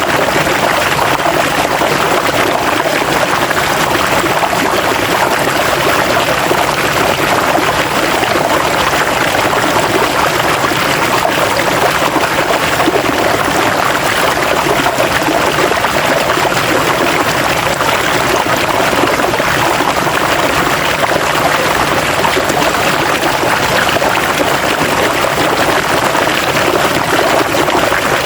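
River water flowing and splashing over rocks, a steady, even rush.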